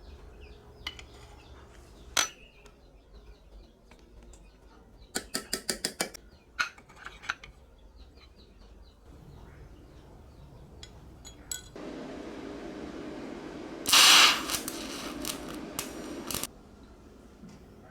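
Metal parts and tools being handled: scattered clinks and taps, with a quick run of about seven clicks about five seconds in. Near the end a steady hum comes in, with a loud hiss-like burst lasting about half a second.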